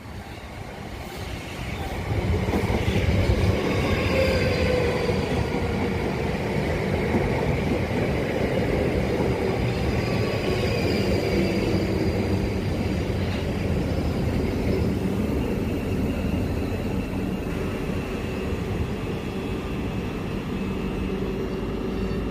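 South Western Railway electric train running along the platform, with wheel-on-rail rumble and whining tones that drift slowly down in pitch. The sound swells over the first two seconds, then holds steady.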